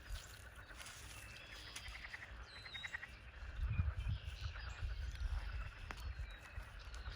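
Chickens clucking, with runs of rapid pulsed calls about two seconds in and again near six seconds. Wind rumbles on the microphone.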